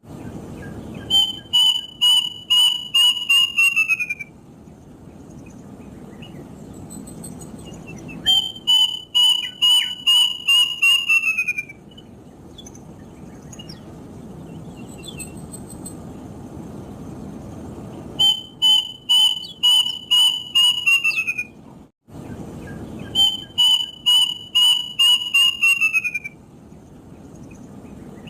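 Kedasih (plaintive cuckoo) singing: four phrases of seven or eight clear whistled notes each, every phrase ending with the notes sliding lower in pitch, with a few seconds of background hiss between phrases.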